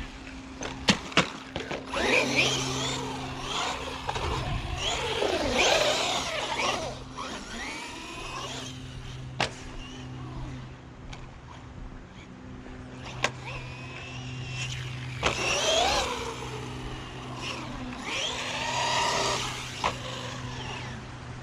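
Bezgar HM124 1/12-scale brushless RC car's electric motor whining up and down in pitch as the car accelerates and slows, in several bursts. There are sharp knocks about a second in and a few more later, and a steady low hum underneath.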